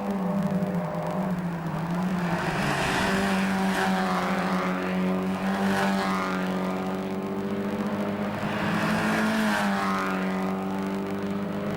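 Mazda MX-5 Cup race cars' engines running at racing revs: one engine note holds steady throughout while other cars pass with their pitch sweeping, in the middle and again near the end.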